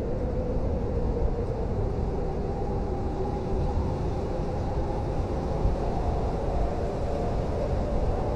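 Blizzard wind blowing steadily: a deep rumble with a faint wavering moan over it.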